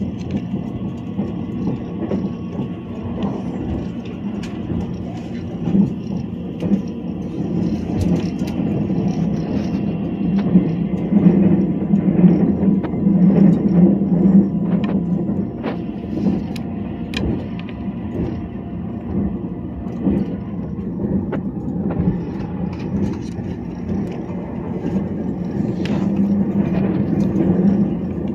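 Steady rumble of a limited express train running on the rails, heard from inside the passenger car, with scattered small clicks and knocks. It swells a little in the middle.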